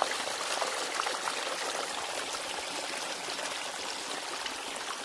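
Rainwater runoff running in a small channel over rocks, a steady trickling, splashing flow of storm water.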